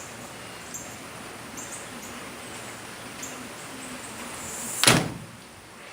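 Heavy rain falling steadily, with faint high chirps every second or so. About five seconds in there is a sudden loud, brief noise that swells and then falls away.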